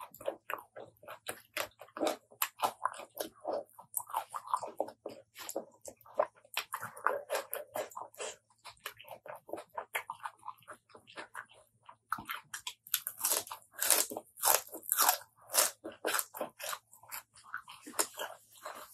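Close-miked eating of a spicy apple snail salad with raw vegetables: wet chewing and crisp crunching bites in quick succession. A short lull comes about two-thirds of the way through, then a louder, denser run of crunches.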